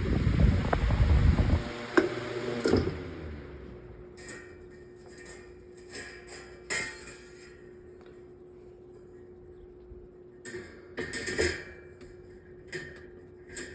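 A 12-inch metal table fan runs with a low, buffeting air rumble that stops abruptly about two seconds in, leaving a steady hum. Scattered clicks and knocks of handling follow, with a short cluster near the end.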